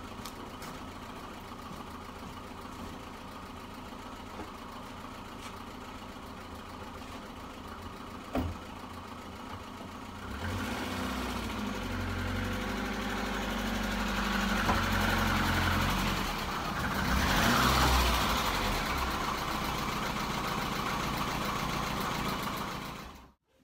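Lada VAZ-2115's four-cylinder engine idling steadily, with one sharp knock about eight seconds in. From about ten seconds in it runs louder at raised revs, swelling twice, before the sound cuts off abruptly near the end.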